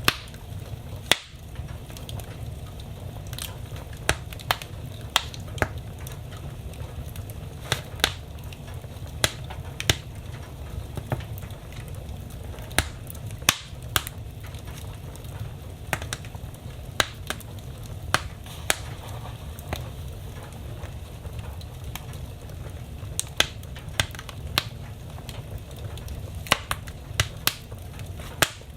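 Wood fire burning in a fireplace: irregular sharp crackles and pops, often a second or less apart, over a steady low rumble of the flames.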